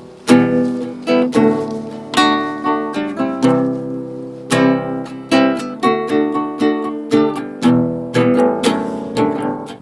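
Classical guitar strung with steel acoustic strings, played solo: a slow run of plucked and strummed chords, each struck sharply and left to ring.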